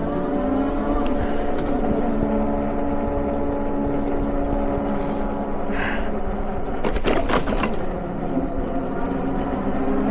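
TST R002 electric bike being ridden: a steady hum of several even pitches held together, over low wind rumble on the microphone. A brief rattle sounds about seven seconds in.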